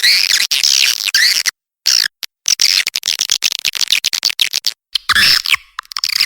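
Swiftlet lure call recording: rapid, high twittering and chirping of swiftlets, dense and continuous with a few abrupt short silent gaps where the track is edited.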